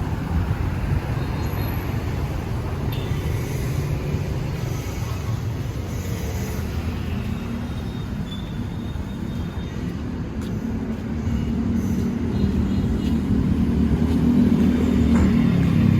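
Street traffic running steadily, with one vehicle's engine hum growing louder over the last few seconds as it draws near.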